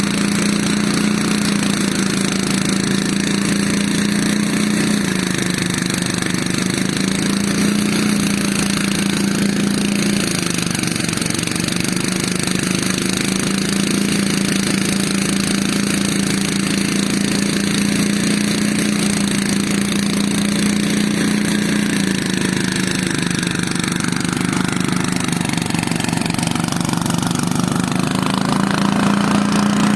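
A small engine running steadily during a rice harvest. Its pitch dips and recovers a few times, as if briefly loaded, and sags for a few seconds near the end before picking up again.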